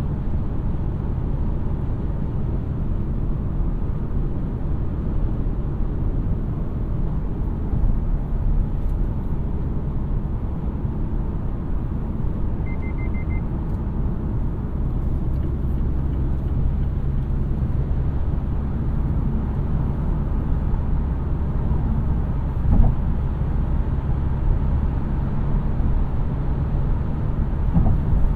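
2017 Mazda CX-3's 2.0-litre four-cylinder petrol engine and road noise while driving, a steady low rumble. About halfway through comes a brief run of quick high electronic beeps, and a single thump follows some ten seconds later.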